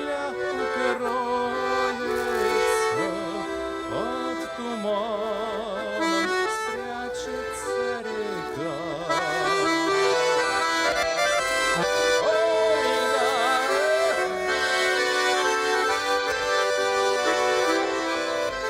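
Accordion playing a Russian folk tune, instrumental with no singing: melody over held chords, with changing notes throughout.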